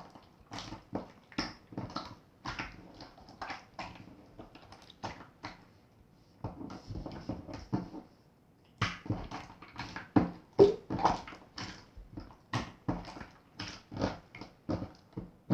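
Clear water-jelly slime being squeezed and poked by hand, a quick run of short squelching pops and clicks. It goes softer for a couple of seconds just past the middle, then picks up again louder.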